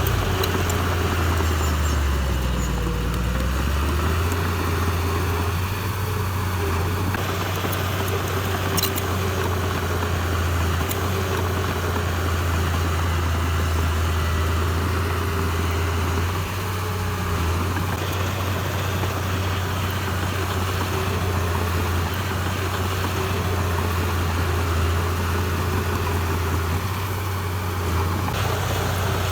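Heavy diesel engine of earthmoving machinery running steadily under work. Its note drops briefly about two to four seconds in, then recovers.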